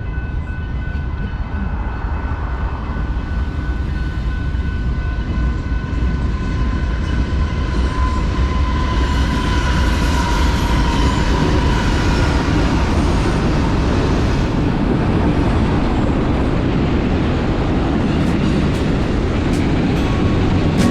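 BNSF freight train rolling past: a steady low rumble and rolling noise that grows slightly louder, with thin, steady high tones over it in the first half.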